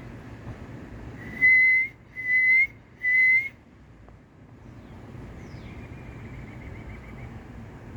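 Three loud, clear whistled notes in a row, each about half a second and turning slightly up at the end. Faint, high, quick downward-slurred bird chirps sound before and after, and a faint trill follows in the second half.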